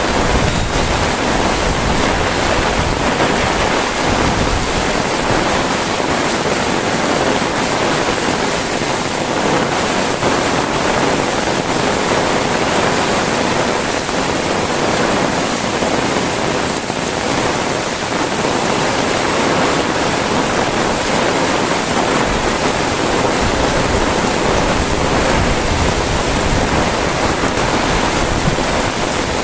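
Heavy rain falling steadily, a dense even hiss, with low rumbles of wind on the microphone near the start and again toward the end.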